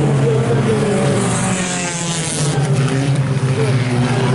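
Engines of a field of IMCA Sport Compact race cars running together, a steady drone with pitch rising and falling as the cars lap under caution and ready for the restart.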